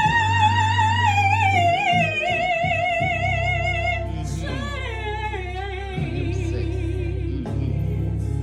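Gospel singing: a voice holds long notes with wide vibrato, stepping down in pitch, then starts a new sliding phrase about halfway through, over instrumental accompaniment with steady low bass notes.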